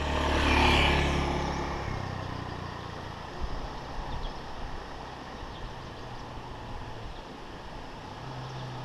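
A motor vehicle passing close by on the road, loudest under a second in and fading over the next second or so, followed by the lower engine hum of more traffic.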